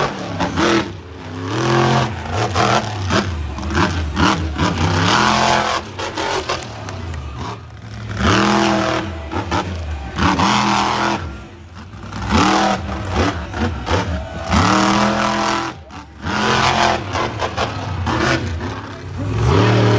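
Monster truck engine revving hard in repeated bursts, its pitch climbing and dropping several times, with short dips between.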